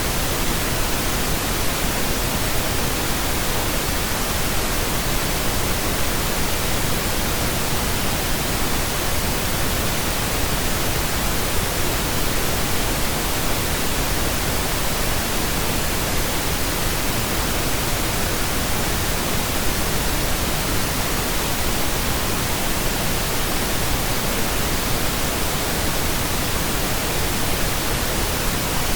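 Steady pink noise: a constant, even hiss with no change in level or texture.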